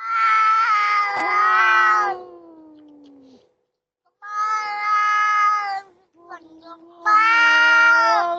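Cats yowling at each other in a fight standoff: three long, drawn-out yowls in a row, with a lower growl beneath the first and the last.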